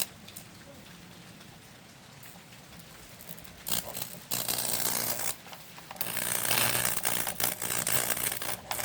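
High-voltage arc from a neon sign transformer buzzing and crackling as it burns into damp wood. It starts about three and a half seconds in, comes in two short bursts, then runs almost without a break from about six seconds in; the wood is still being dried out by the current.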